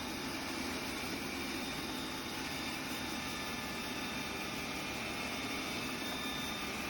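Roborock Qrevo Curv robot vacuum running: a steady whirring hiss with a faint high whine.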